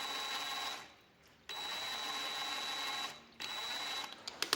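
Parkside PABS 20 Li G8 cordless drill running in three short bursts at a steady speed, with a high whine, as the trigger is pressed and released. A few light clicks follow near the end.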